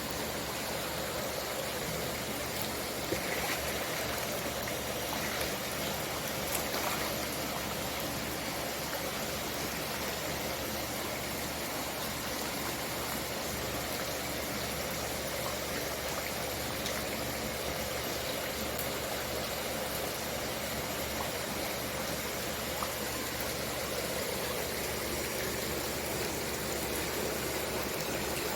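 Steady rush of running or falling water, with a few faint splashes a few seconds in.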